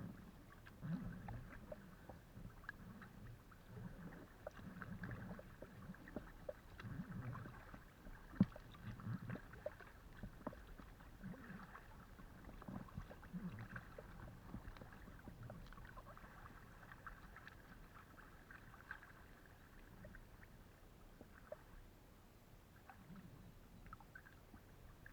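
Faint paddling on a Decathlon Itiwit x500 kayak, heard from a camera mounted on the kayak: irregular soft splashes of paddle strokes and water against the hull, with small knocks and one sharper knock about eight seconds in.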